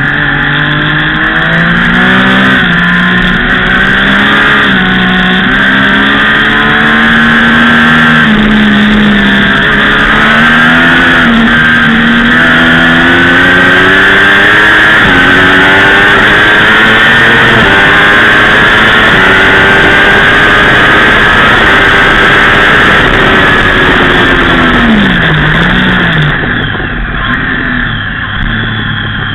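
A 675 sport bike's three-cylinder engine heard on board at track speed, with wind rush. The revs climb and fall through the gears. Near the end the revs drop sharply and the engine quietens as the throttle is closed for a corner.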